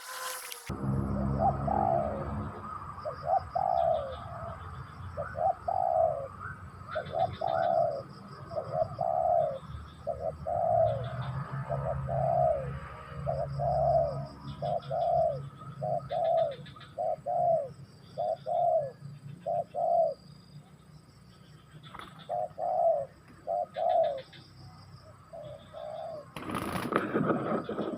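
Spotted dove (tekukur) cooing: a long run of short coos, each rising then falling, about one a second with short pauses, and faint high chirps alongside. A brief burst of noise comes near the end.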